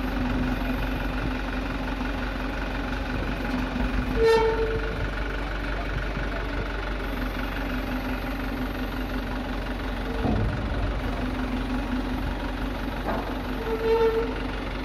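Hino Dutro 130 HD dump truck's diesel engine running steadily, with three short horn toots: about four seconds in, about ten seconds in, and near the end, the first and last the loudest.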